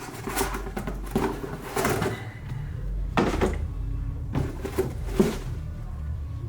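A series of hollow plastic clunks and knocks, about seven in all, from quart bottles of motor oil being handled while fresh oil is poured into the engine, over a low steady hum.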